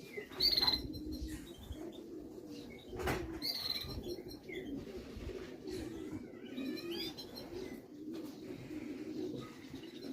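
Pigeons cooing continuously. High chirps break in three times, and there is one short knock about three seconds in.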